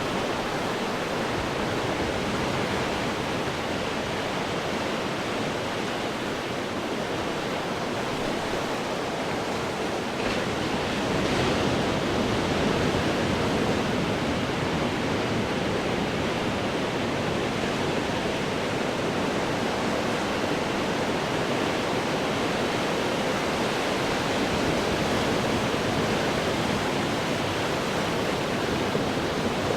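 Ocean waves breaking on rocks, a steady rush of surf that swells a little louder about ten seconds in and stays up.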